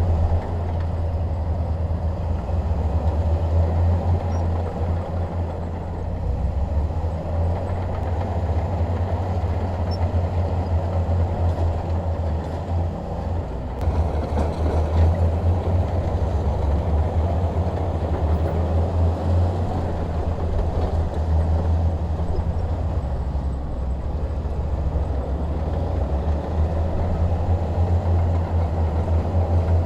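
Bulldozer's diesel engine running steadily under load with a deep drone, mixed with the clatter of its tracks working.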